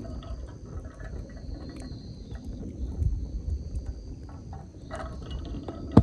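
Wind rumbling on the microphone, with insects chirring steadily in two high tones and scattered small crackles from the wood campfire; one sharp knock right at the end.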